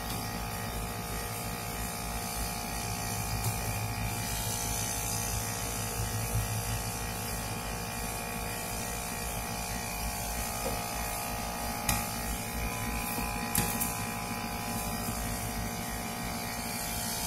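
Rooftop air-conditioning unit running with a steady hum, and two short clicks in the second half.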